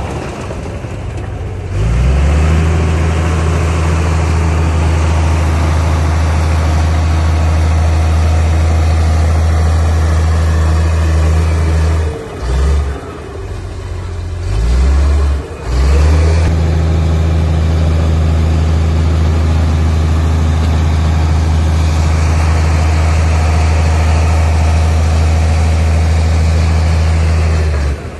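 Heavy diesel engine of earthmoving equipment working under load, a steady low drone. About twelve seconds in it eases off for a few seconds with two short surges, then pulls back up to a steady drone until just before the end.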